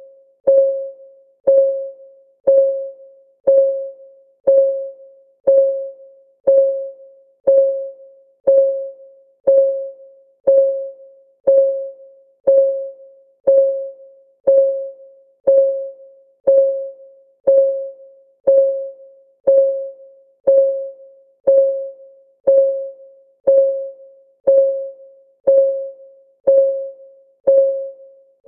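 Countdown timer's clock ticking, steady at one tick per second. Each tick is a short, pitched tock that rings briefly and fades.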